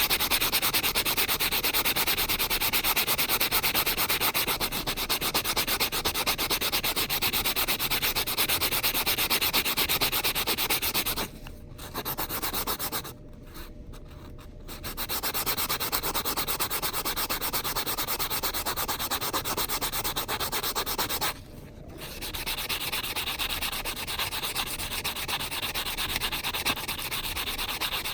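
The cut edge of a metal coin ring being sanded with quick back-and-forth strokes on a multi-grit nail file board: a continuous scratchy rasp. The strokes stop briefly a few times, near the middle and about three-quarters through, to smooth the ring's rough edge.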